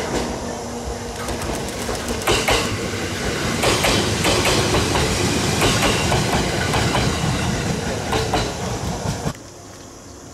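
Train running past, its wheels clacking over rail joints. The clacking grows louder from about two seconds in and cuts off suddenly near the end.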